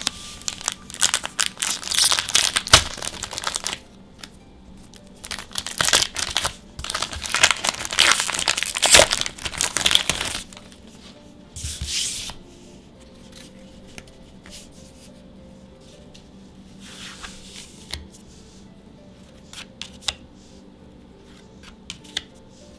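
Foil wrapper of a Magic: The Gathering booster pack being torn open and crinkled, in two long stretches of tearing and crackling over the first ten seconds. Shorter crinkles follow, then faint taps and clicks as the cards are handled.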